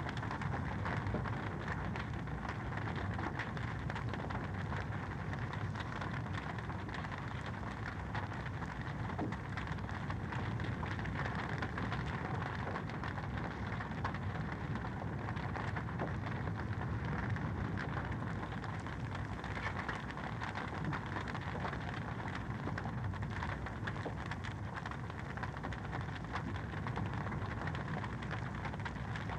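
Wood fire in a fireplace crackling steadily, a dense run of small pops and ticks over a constant low rush.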